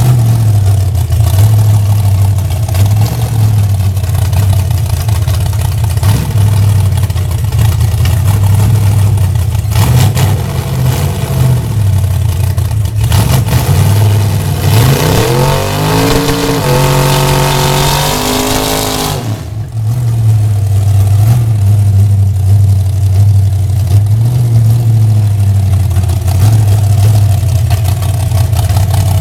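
Chevrolet Nova drag car's engine idling loudly, revved once about halfway through: the pitch climbs over a few seconds, holds high briefly, then drops suddenly back to idle.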